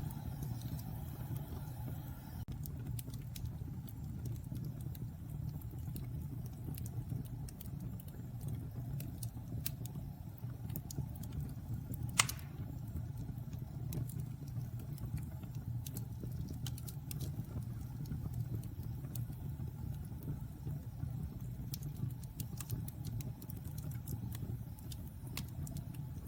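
Wood fire burning in a fireplace: a steady low rumble of flames with scattered crackles, and one louder pop about twelve seconds in.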